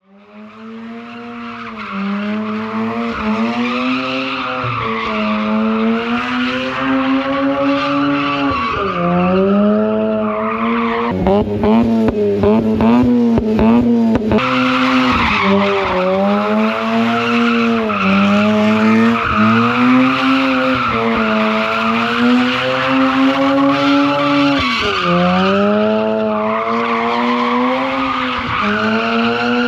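Mazda RX8's two-rotor Renesis rotary engine held at high revs during a burnout, the revs swinging up and down, with continuous tire squeal. From about 11 to 14 seconds the revs flutter rapidly up and down.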